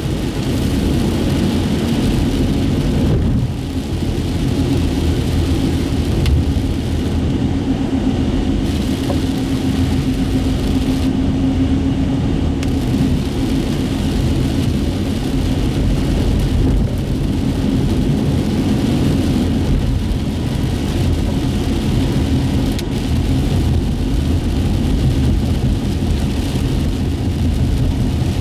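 Steady road noise inside a moving car on wet streets: low engine and tyre rumble with a hiss of tyres on wet pavement. A humming tone rises out of the rumble from about three to thirteen seconds in.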